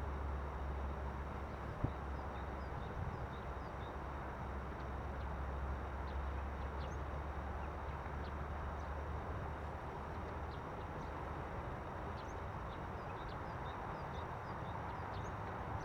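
Freight train rolling steadily along the track, a continuous rumble whose deepest part fades about two-thirds of the way through, with one sharp click near the start. Small birds chirp over it.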